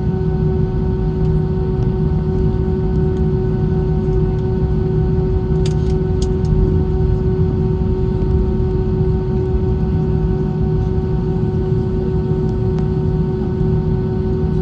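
Steady drone of an Airbus A320's jet engines and airflow heard inside the cabin, a deep rumble with a constant hum over it. Two short clicks about six seconds in.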